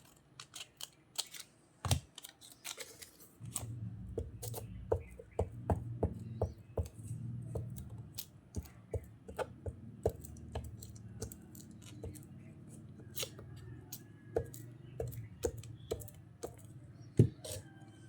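Scissors cutting paper or cardstock: a run of short, sharp snips about two a second, over low steady background noise.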